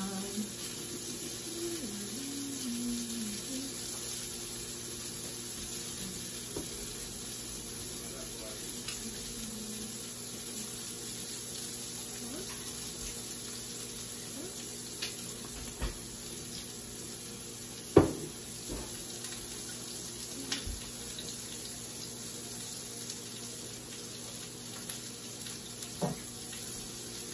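Chicken breasts frying in a pan, a steady sizzle, with one sharp knock about eighteen seconds in.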